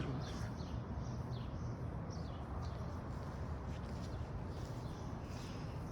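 Outdoor ambience: a steady low background hum with faint, scattered bird chirps.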